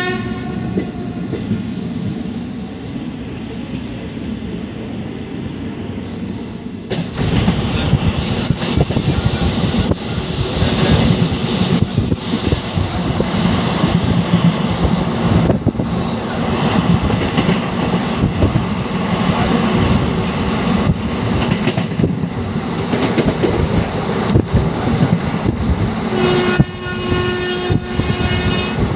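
Express passenger train running at speed, heard from inside a coach by the open door and window. There is a steady rumble with wheels clattering over the rail joints, louder from about seven seconds in. A locomotive horn sounds at the very start and blows again for the last few seconds.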